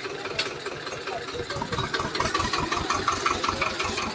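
Diesel tractor engine running steadily, its firing beats close and even.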